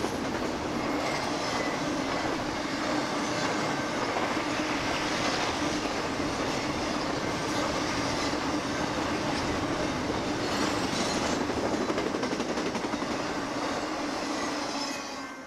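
Intermodal freight train cars rolling past: the steady rumble and clatter of steel wheels on rail. It fades off as the last cars go by near the end.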